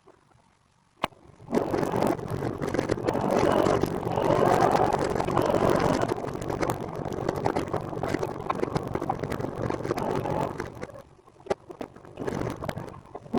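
Rushing wind and road noise on the microphone of a moving recumbent trike. It comes in suddenly after a click about a second and a half in, with crackles throughout, and dips briefly near the end.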